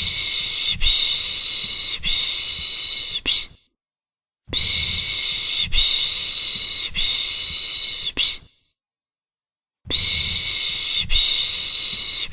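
A person making the soothing 'piş piş' shushing sound for a baby: long hissing 'shh' strokes in groups of three, each group about four seconds long, with short silent gaps between the groups.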